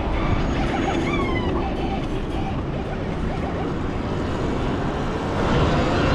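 Wind and road rush from riding an electric dirt bike, with a brief falling whine about a second in.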